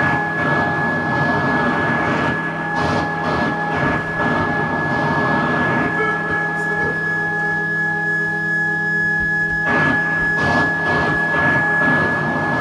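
Electronic soundscape: a steady high drone tone held throughout over a dense, grainy, machine-like noise texture that swells and pulses. About six seconds in the noise thins out to a few sustained tones, and the full texture comes back in shortly before ten seconds.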